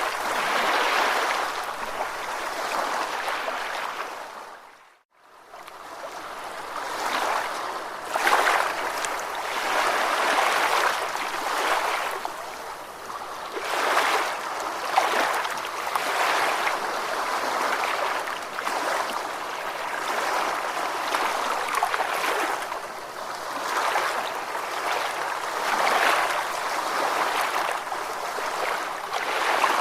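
Ocean waves washing in a continuous hiss that swells and ebbs every couple of seconds. The sound fades out briefly about five seconds in and comes straight back.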